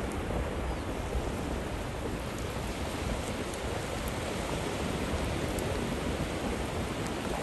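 Steady wind noise rushing over the microphone of a moving bicycle: an even hiss with a low rumble underneath, without a break.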